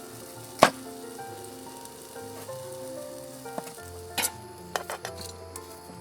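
Food sizzling in a pan, with utensils clicking and scraping: one sharp click about half a second in and several more around four to five seconds. Soft background music plays underneath.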